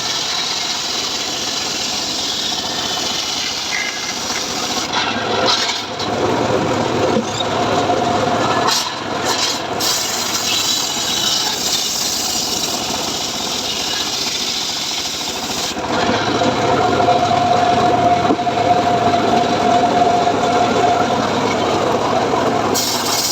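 Homemade engine-driven sawmill running and sawing mahogany, the blade cutting through the wood with a continuous rasp. The cut gets louder about two-thirds of the way through and carries a steady whine for several seconds.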